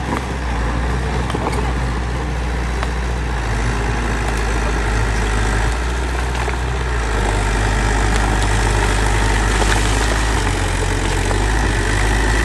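Bulldozer's diesel engine running steadily, louder and harsher from about halfway through, with a few light knocks.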